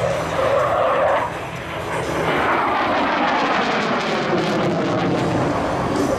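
Loud jet noise of a MiG-29 fighter's twin engines as it passes, the pitch falling steadily from about two seconds in.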